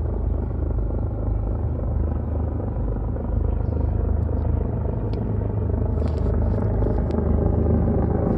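Helicopters flying overhead: a steady low rumble of rotors and engines.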